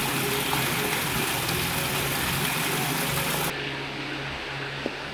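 Motorcycle engine running steadily under road and wind hiss. About three and a half seconds in, the hiss cuts off abruptly, leaving the engine sound lower and quieter.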